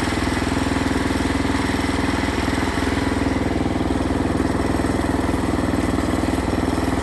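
Portable band sawmill's gas engine running steadily at an even speed.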